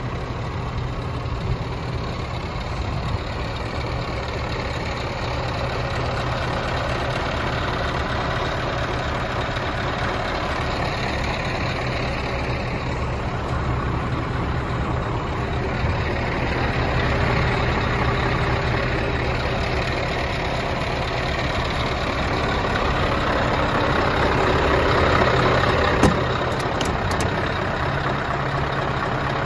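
Scania R560's V8 diesel engine idling steadily, growing a little louder twice along the way. A single sharp click near the end.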